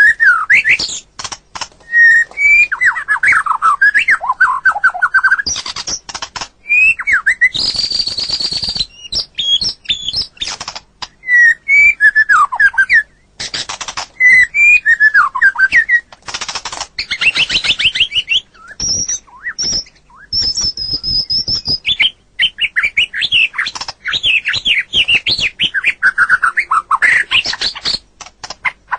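White-rumped shama (murai batu) singing a long, varied song: rapid whistled phrases of rising and falling notes, broken now and then by harsh buzzy rattles.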